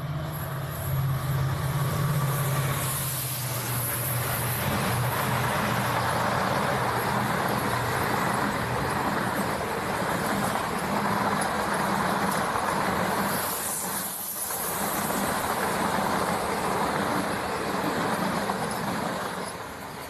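A diesel-hauled Indian Railways express train passing at speed: the locomotive's engine hum for the first few seconds, then a steady loud rush of the coaches running over the rails, fading near the end.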